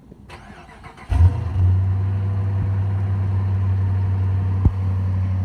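A 2014 Dodge Charger R/T's 5.7 Hemi V8 on a cold start: about a second in it fires with a loud burst, then settles into a steady, even idle.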